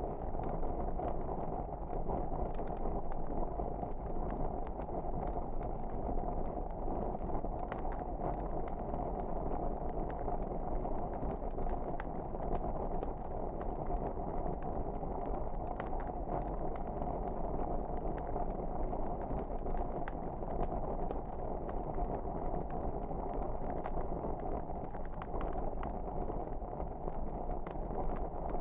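Fireplace fire burning: a steady low rush of flames with scattered small crackles and pops throughout.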